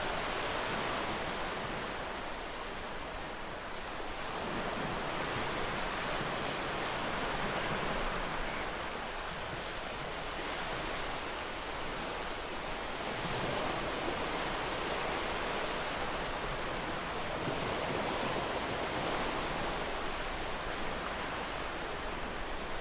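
Ocean surf breaking and washing onto a shore: a continuous rushing hiss that swells and eases every few seconds.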